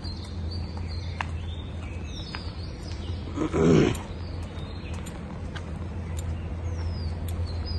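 Outdoor morning ambience: birds chirping with short falling whistles over a steady low rumble. One loud, short, pitched animal-like call stands out about halfway through.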